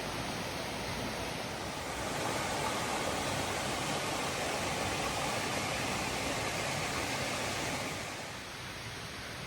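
Waterfall's water rushing in a steady hiss. It grows louder about two seconds in and falls back near the end.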